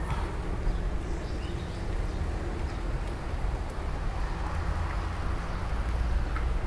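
Steady hiss of heavy rain with a low rumble underneath.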